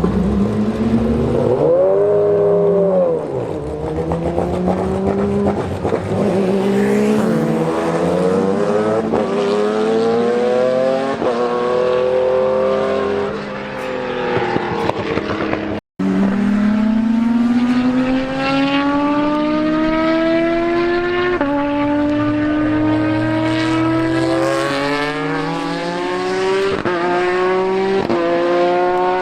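Unsilenced race car engines accelerating hard: the engine note climbs and drops sharply at each quick upshift, about once a second. There is a brief cut near the middle, after which another car pulls through its gears the same way.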